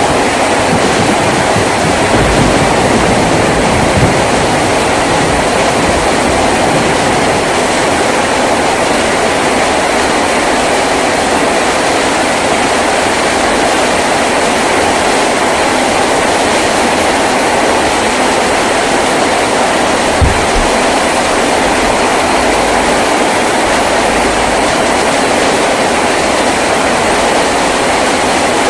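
Heavy rain pouring steadily on a tin roof, a dense unbroken patter, with a couple of brief low knocks about four seconds and twenty seconds in.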